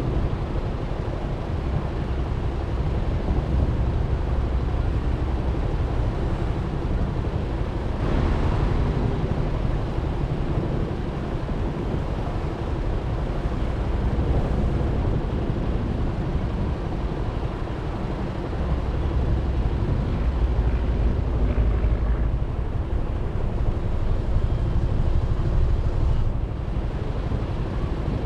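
Suzuki Burgman 400 scooter under way: its single-cylinder engine running with wind noise on the mounted microphone and road noise. The level swells and eases several times, with a brief louder rush about eight seconds in.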